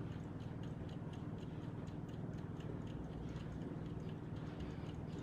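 Faint, steady ticking at about three ticks a second over a low steady hum.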